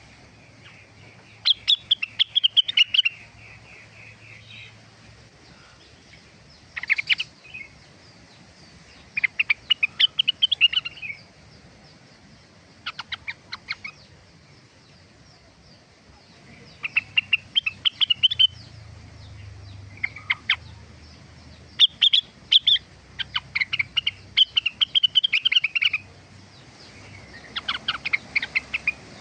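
A rengganis songbird singing in short rapid phrases of chirps and trills, about ten bursts separated by pauses of a second or more.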